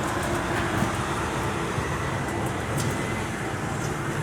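Steady rush of highway traffic, a continuous roar with a low hum under it.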